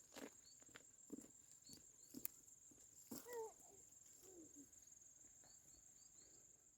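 Faint outdoor insect chorus: a steady high-pitched buzz like crickets. A few soft footsteps fall in the first couple of seconds, and a short call that bends in pitch comes about three seconds in.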